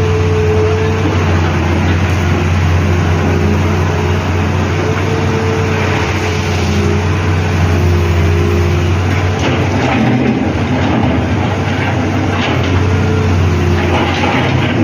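Excavator's diesel engine running steadily with a deep hum, and a higher whine that wavers in pitch and comes and goes.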